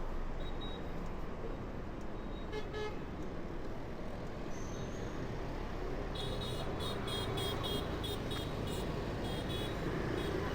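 Street traffic noise with vehicle horns tooting: one short toot about two and a half seconds in, then a run of quick, repeated high-pitched beeps from about six seconds in.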